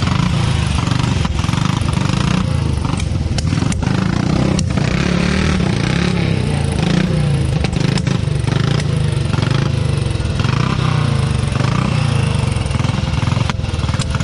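Motorcycle engine running, a loud, steady low rumble with a few short clicks over it.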